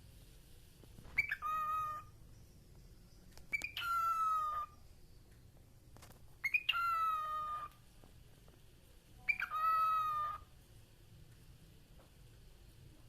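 Talking parakeet making four similar drawn-out, meow-like calls, each about a second long, roughly every three seconds.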